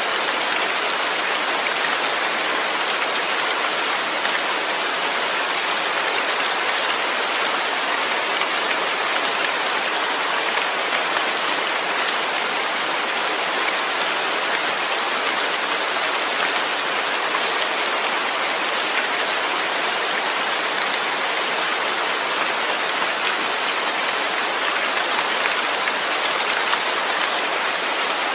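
Steady, even rain falling, a dense continuous patter.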